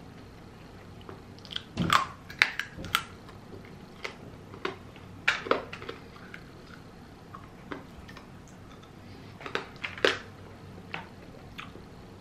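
Chewing and crunching of crispy fried chicken chunks on the bone (pollo frito con hueso), with sharp crunches in clusters about two, five and ten seconds in and single softer ones between.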